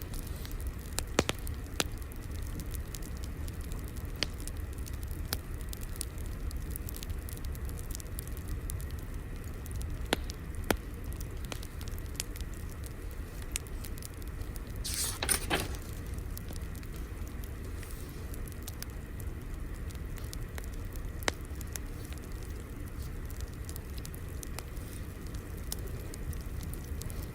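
Fire crackling: a steady low rumble with scattered sharp pops and crackles, and one brief louder hiss about halfway through.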